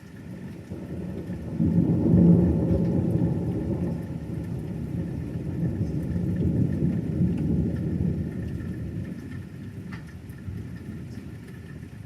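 Rolling thunder from a thunderstorm: a low rumble that builds over the first two seconds, peaks, then slowly dies away over the next several seconds.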